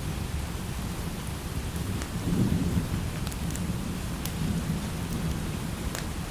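Steady light rain with low rolling thunder that swells about two seconds in and rumbles on, with scattered sharp ticks on top.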